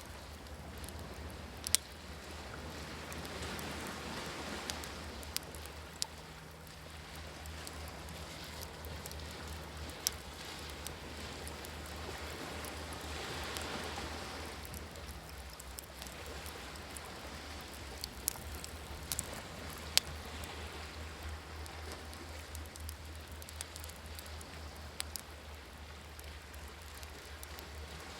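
Wood campfire crackling with scattered sharp pops, over waves that swell and wash in and out every eight or nine seconds.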